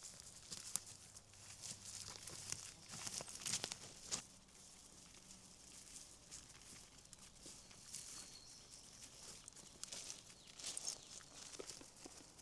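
Irregular crackling and rustling in forest ground litter, typical of footsteps and movement through undergrowth, with busier clusters about three seconds in and again near ten seconds.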